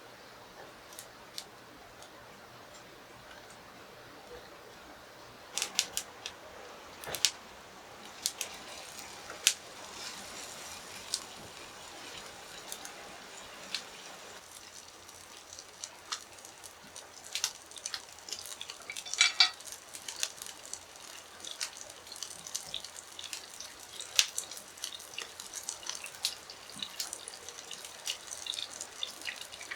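Irregular clinks and knocks of hard objects being handled while preparing food. They start a few seconds in, with a quick cluster a little past the middle and frequent small ticks after it.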